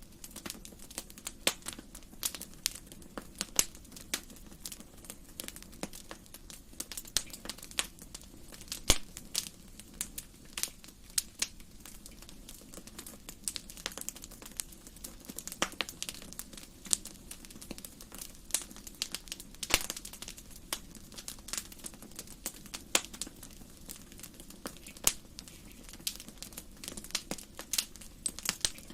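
Wood fire burning in a fireplace, crackling with many irregular sharp pops and snaps over a steady low rush of flame.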